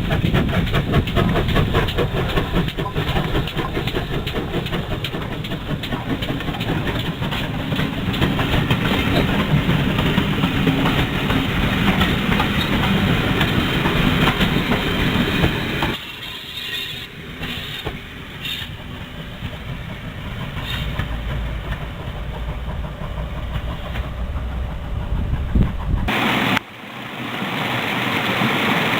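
Steam train running on a heritage line, loud and busy at first, then dropping abruptly to a quieter rail sound about halfway through, with another sudden break near the end.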